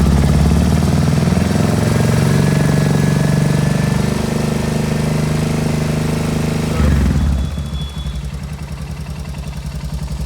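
Royal Enfield Hunter 350's single-cylinder engine running above idle, then dropping back to a steady idle about seven seconds in. Only a light tappet tick remains, its valve clearances having just been tightened to cure loose, noisy tappets.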